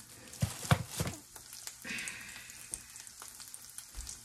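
Banana-peel patty frying in hot canola oil in a nonstick pan, a steady sizzle with small crackling pops. A few knocks sound in the first second or so.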